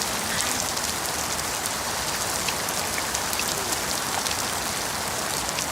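Steady rain falling, an even hiss of noise dotted with many small drop ticks.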